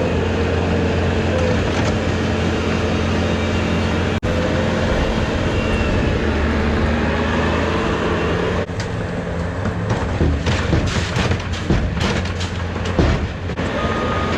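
Heavy truck engine running steadily, with a run of clatters and knocks from about nine seconds in until near the end.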